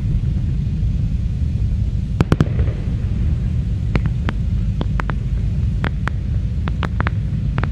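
Aerial fireworks going off over a constant low rumble. A quick cluster of three sharp bangs comes about two seconds in, followed by scattered single cracks every half second or so.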